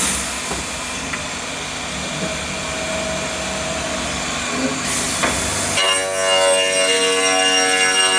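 SCM Startech CNC machining centre running with a steady mechanical noise; about six seconds in the sound changes abruptly to a steady whine of several tones.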